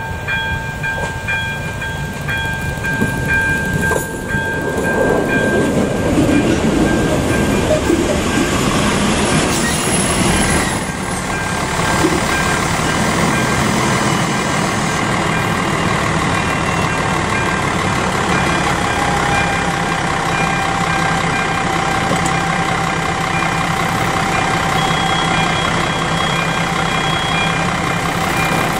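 Electronic level-crossing warning bell ringing in repeated tones as a ČD RegioNova diesel railcar rumbles in and draws up at the crossing, with a brief high squeal as it slows. The railcar's engine then idles steadily while the bell keeps ringing.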